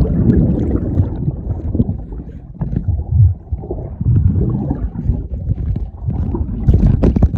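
Low, uneven rumble of wind buffeting the microphone, with a few short knocks.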